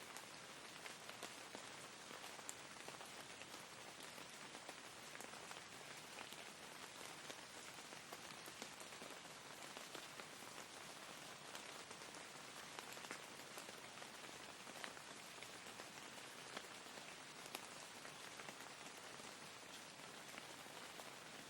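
Faint, steady rain: an even hiss dotted with scattered drop ticks.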